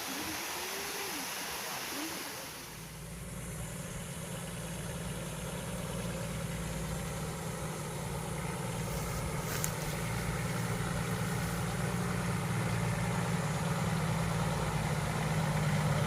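Rushing water with a few short curving hoot-like calls, cut off about two and a half seconds in by a motor vehicle's engine running with a steady low hum that grows slowly louder.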